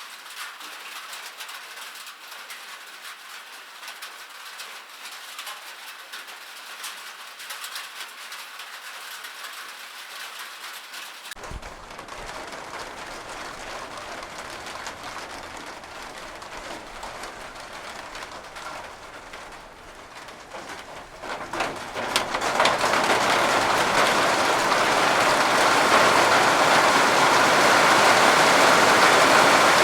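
Rain sound effects: a light, hissing rain for about the first eleven seconds, then a sudden change to a fuller rain recording. About ten seconds later the rain builds quickly into a loud, heavy downpour that holds steady.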